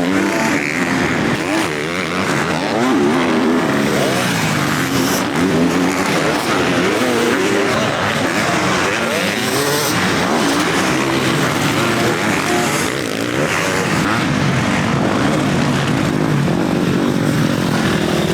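Several motocross bikes racing, their engines revving up and down at once with many overlapping rising and falling pitches.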